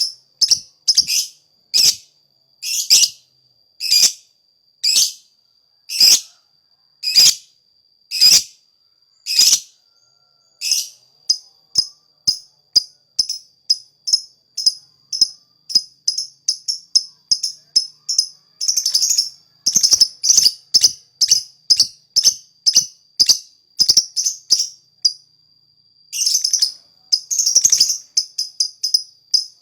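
Bird known in Indonesia as the lakbet singing in full voice: short calls repeated over and over, about one a second at first, then quickening to about three a second from around ten seconds in, with denser runs near the end. A steady thin high tone runs underneath.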